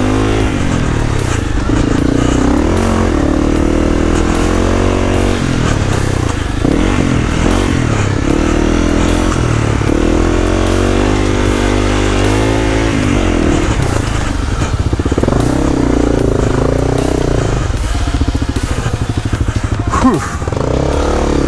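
Honda CRF 250L single-cylinder four-stroke dirt bike being ridden slowly, the engine revving up and easing off again and again. A sharp knock comes near the end.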